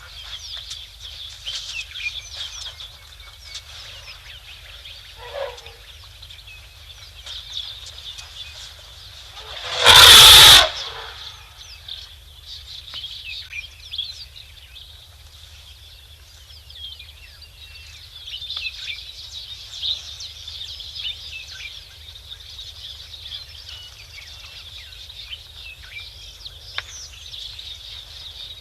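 An African bush elephant trumpets once, very loud and lasting under a second, about ten seconds in. Birds chirp steadily throughout.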